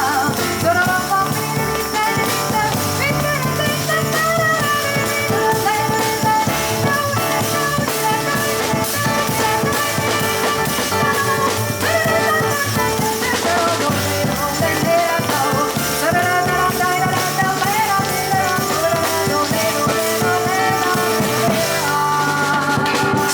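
Live jazz trio of piano, double bass and drum kit playing steadily, with a melody line moving over the bass and drums.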